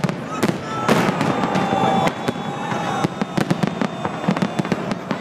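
Aerial fireworks shells bursting in a dense run of sharp bangs and crackles, several a second, the loudest about a second in.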